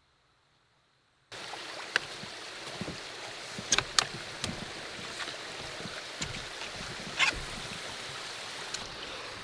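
A canoe moving on water: a steady wash of water noise with a few sharp paddle knocks and splashes. It starts suddenly after about a second of near silence.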